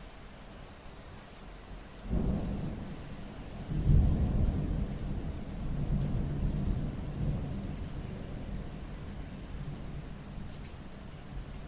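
Steady rain with a roll of thunder that sets in about two seconds in, is loudest about four seconds in, and rumbles on, slowly fading.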